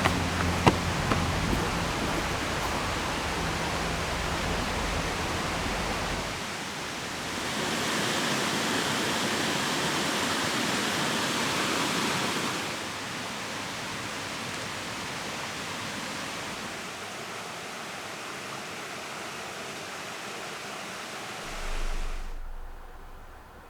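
Steady rush of flowing river water mixed with rain, a continuous even noise that grows louder and brighter for several seconds in the middle, then settles softer and fades down near the end.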